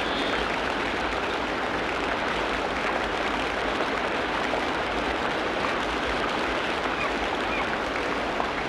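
Tropical rainforest ambience: a steady, even rush of water, with a few faint high chirps, one at the start and a couple about seven seconds in.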